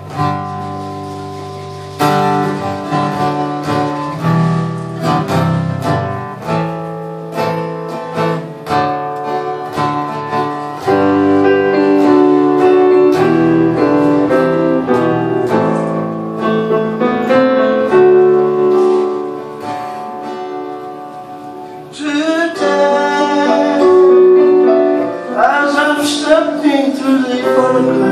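Live band music, a slow song led by guitar. It grows fuller and louder about eleven seconds in, and again a few seconds before the end.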